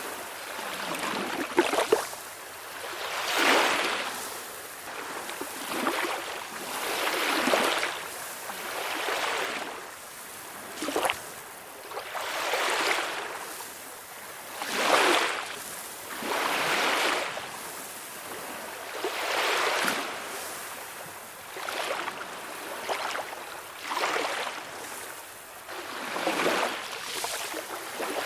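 Small sea waves breaking and washing on a shore, swelling and fading about every two seconds, with a few sharper splashes.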